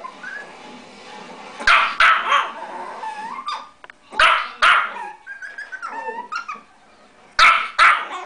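A tiny dog barking in short sharp double barks: three pairs a couple of seconds apart.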